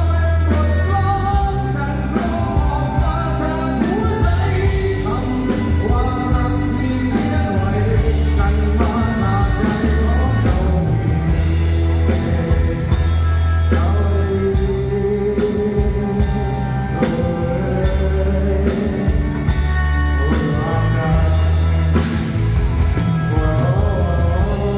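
A live band playing a song with a singer, over a heavy bass and a steady drum beat.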